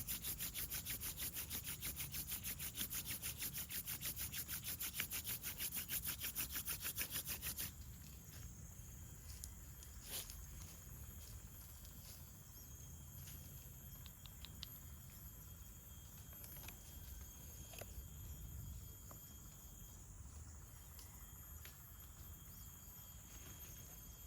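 Hand-drill fire-making: a wooden spindle spun back and forth between the palms on a fireboard, its tip rubbing in the socket in a fast, even rhythm. The rubbing stops suddenly about eight seconds in, leaving a faint steady background with a few small clicks.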